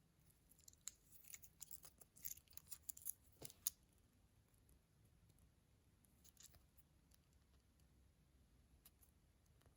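Faint crisp crackling and clicking of packaging being opened during a blind-bag unboxing: a quick run of sharp sounds in roughly the first four seconds, then a short cluster a little past the middle.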